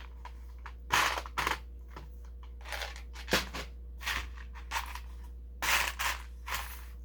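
Loose plastic LEGO pieces clicking and clattering in short, irregular bursts as they are picked through and handled on a hard surface.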